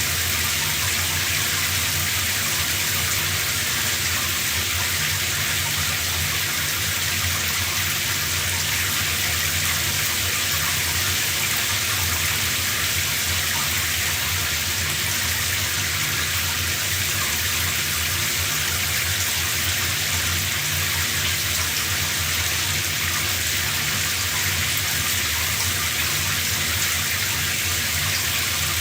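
Shower spray running steadily, water streaming and splashing with an even hiss.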